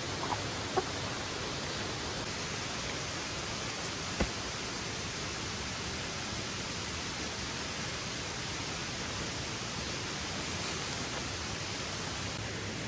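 Steady rushing of falling water, an even hiss that holds unchanged throughout. A couple of light clicks sound near the start, and a single knock about four seconds in.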